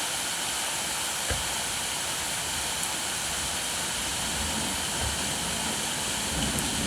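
Steady rain falling, an even hiss. There is one sharp tap about a second in and a few low rumbles toward the end.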